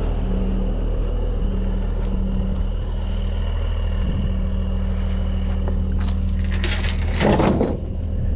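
Heavy truck's diesel engine idling steadily, with a brief clatter about six to seven and a half seconds in.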